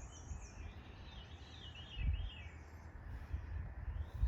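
Birds singing: repeated quick up-and-down chirping phrases over a faint low background rumble, with a low thump about two seconds in and another near the end.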